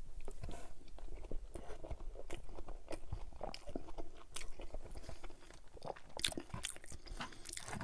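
A man chewing a mouthful of cabbage roll in tomato sauce and sour cream, close to the microphone: a steady run of short mouth clicks and smacks.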